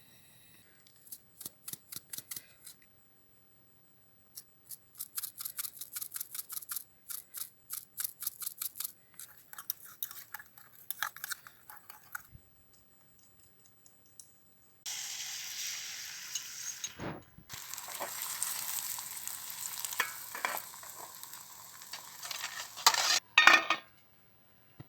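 Camp cooking. First come runs of quick, evenly repeated strokes, as in chopping or stirring. After that, food sizzles in a frying pan, with a few sharp metal clanks of the pan and utensils, the loudest near the end.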